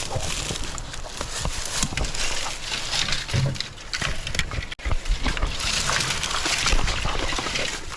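Footsteps crunching through dry leaf litter and brush rustling against the body and pack while pushing through a bamboo thicket, with small snaps and low thumps of handling on a body-worn action camera.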